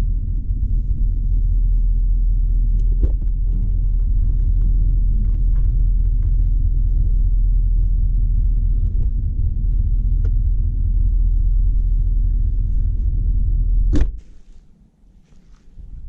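Steady, loud low rumble with a few faint ticks and knocks over it, cutting off abruptly after a sharp click near the end.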